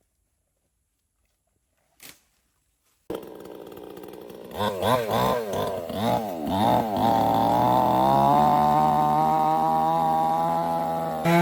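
Near silence for about three seconds, then a chainsaw comes in running at idle. It is revved up and down several times in quick blips, then held at high, steady revs.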